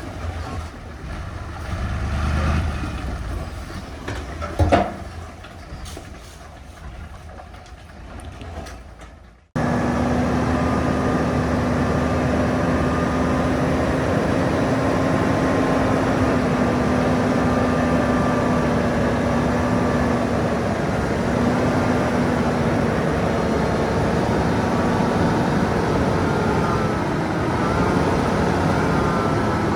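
Heavy diesel earthmoving machinery working. The engine rises and falls, with a sharp clank nearly five seconds in. Then the sound cuts abruptly to a steady, louder engine drone with a constant whine.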